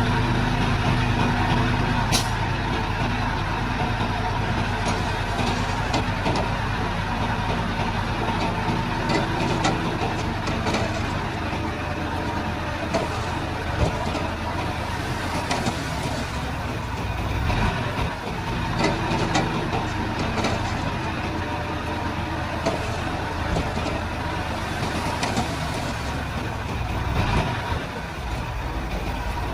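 Komatsu D31-P crawler bulldozer's diesel engine running steadily while it works, with scattered sharp clicks and clanks.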